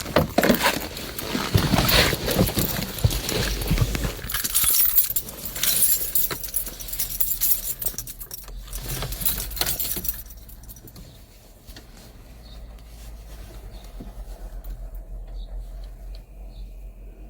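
Volkswagen Passat B5's 1.9 TDI four-cylinder turbodiesel running just after a cold start, with a loud metallic clatter. It settles to a quieter, steadier idle about ten seconds in.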